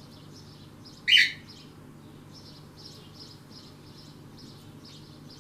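Small birds chirping in a steady run of quick, high notes, with one much louder sharp call about a second in.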